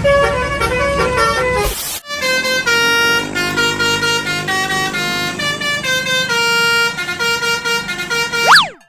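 Basuri telolet multi-tone bus horn playing a tune of short held notes, with a low rumble under the first two seconds. Near the end comes a quick sweep up and back down in pitch, then the sound cuts off.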